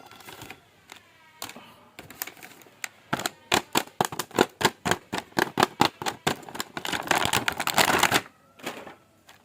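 Hard plastic clicking and clacking as a toy action figure is handled, a few sharp clicks a second that thicken into a dense clatter before stopping suddenly near the end.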